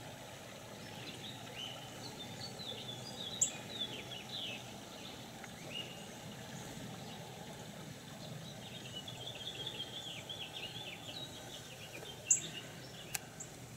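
Quiet outdoor ambience with small birds chirping in quick, twittering runs of short high notes. Two louder sharp high chirps stand out, one a few seconds in and one near the end.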